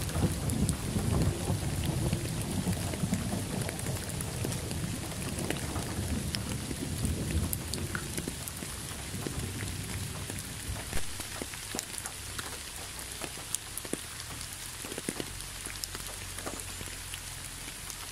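Steady rain falling on a leafy road, with separate drops ticking throughout. A low rumble of thunder runs under it at first and dies away about eight seconds in.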